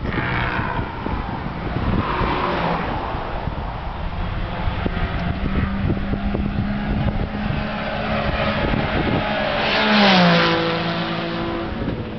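High-performance car engines running. One car passes about ten seconds in, loudest then, its engine note falling in pitch as it goes by.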